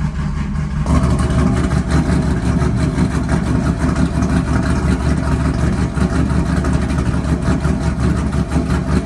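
Chevy Camaro SS's V8 idling from a cold start through new 2-inch long-tube headers and a 3-inch X-pipe exhaust, not revved. About a second in the rumble gets louder and fuller, then holds steady.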